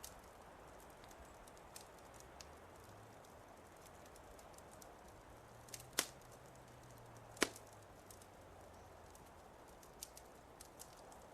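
Fireplace wood fire crackling faintly, with scattered small ticks over a soft hiss and two louder sharp pops about a second and a half apart near the middle.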